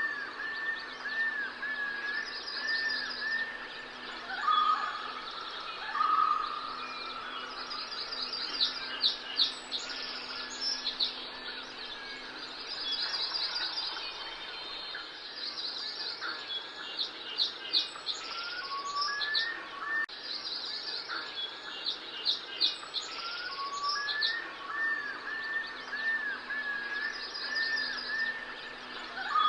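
Several birds chirping and calling: quick high chirp trills and repeated arched whistled notes, over a faint steady hum.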